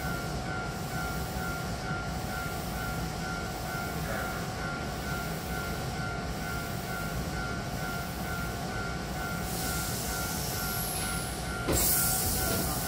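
Hankyu Imazu Line train standing at a platform with its doors open: a steady hum with two held tones over a low rumble. Near the end a sudden loud hiss comes in.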